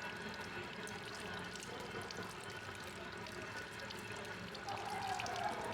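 Running water pouring and splashing at a hair-washing basin, a steady stream with small scattered splashes and clicks, as during a hair rinse.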